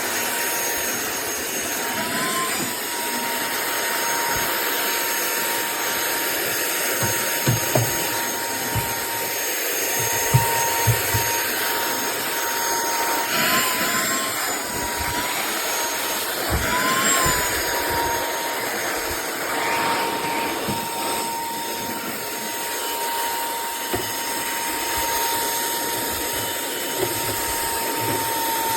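SERVOMASTER cordless handheld vacuum running with a steady high motor whine, its pitch rising briefly a few times. A few light knocks come partway through.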